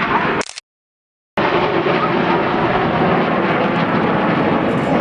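Steady, loud jet noise from Red Arrows BAE Hawk T1 jets flying their display, broken by a complete dropout of the sound lasting under a second near the start.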